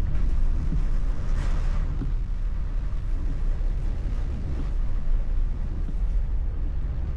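Steady low rumble of a car's engine and road noise heard from inside the cabin, with a brief hiss about a second and a half in.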